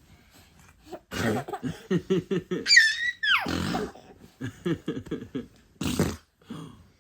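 A young child's wordless vocal sounds: short babbling bursts, with a high squeal about three seconds in that falls sharply in pitch.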